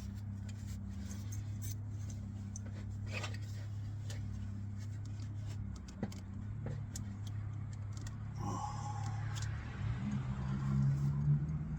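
Light clicks and taps of small metal parts and hand tools being handled while the distributor is refitted, over a steady low hum. Near the end a rising tone swells in.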